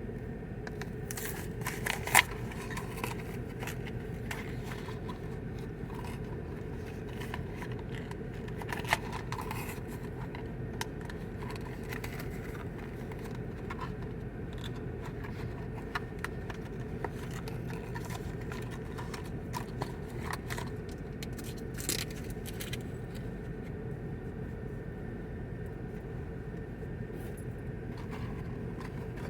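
Steady low hum inside a parked car, with scattered clicks and rustles of things being handled and a few sharp clacks, about 2, 9 and 22 seconds in.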